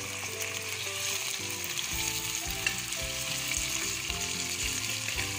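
Raw chicken pieces sizzling steadily in hot oil with fried onions and garlic in a pot, stirred with a wooden spatula that knocks softly against the pot a few times in the second half.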